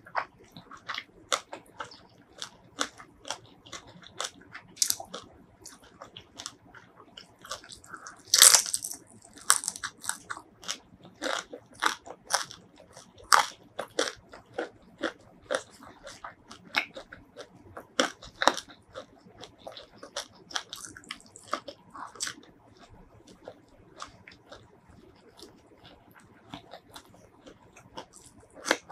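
Close-miked chewing and crunching of spicy fried shrimp: a dense run of short bites and chews, several a second, with the loudest crunch about eight and a half seconds in.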